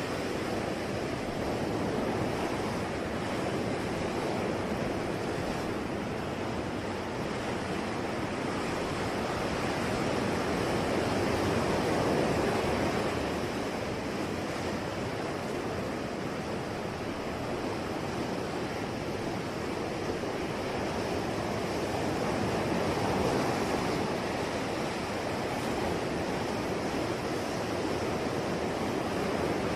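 Ocean waves breaking and washing on the shore, a steady rushing surf that swells gently about twice, around 12 and 23 seconds in.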